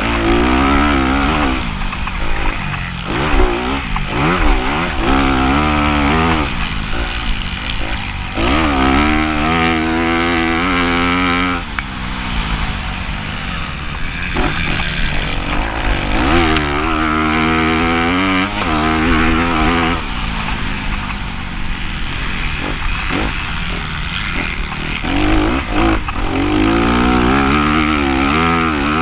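Motocross dirt bike engine racing on a sand track, revving up repeatedly with rising pitch and backing off between pulls, over steady rushing noise.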